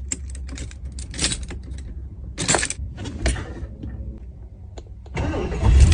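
Low steady rumble of a car, with bursts of rustling and clattering handling noise over it; it grows louder about five seconds in.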